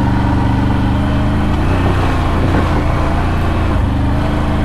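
CFMoto CFORCE 1000 Overland ATV's V-twin engine running steadily under the rider, its pitch wavering slightly in the middle as the throttle changes.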